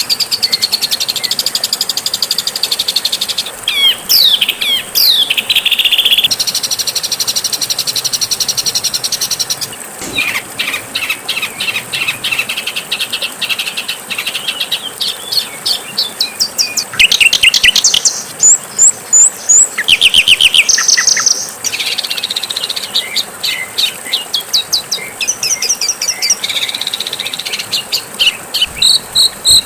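A medley of harsh, varied songbird calls edited together as a masteran tutoring track. The calls shift every few seconds between rapid chattering trills, sliding whistles and buzzy held notes, over a faint steady high hiss.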